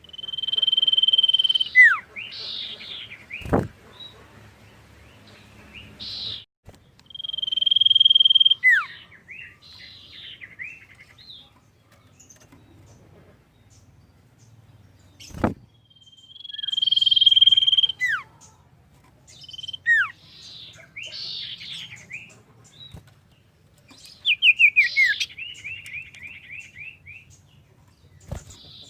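Common iora (cipoh) singing. It repeats a phrase three times: a long, steady, high whistle, then a sharply falling note and a few short chattering notes. Near the end comes a quick run of falling notes. Two sharp clicks cut in, one a few seconds in and one about halfway.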